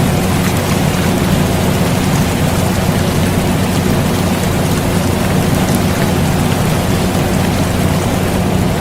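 Steady rain mixed with an air conditioner's constant low hum, an unchanging bed of sound for sleep.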